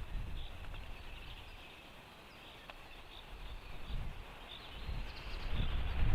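Faint, repeated high chirps of a small songbird, under a low wind rumble on the microphone that eases in the middle and builds again near the end.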